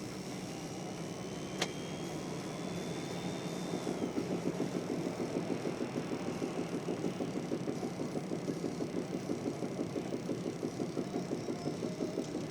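Kia cee'd with a repeated knock from the front end, beating about three to four times a second from about four seconds in, over a steady engine hum. A single sharp click comes about a second and a half in.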